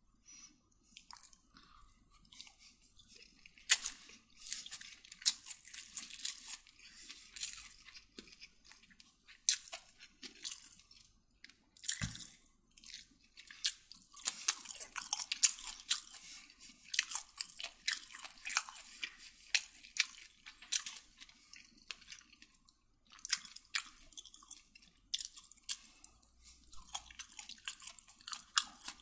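A person chewing food close to the microphone, with crunching and wet crackly mouth sounds coming in bursts separated by short pauses.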